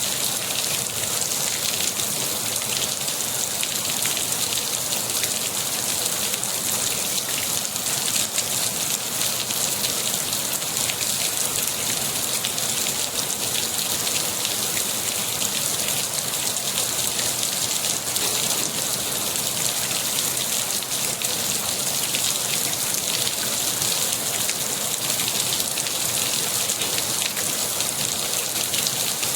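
Steady rain falling, an even hiss thick with fine drop patters, brightest in the upper range and unchanging throughout.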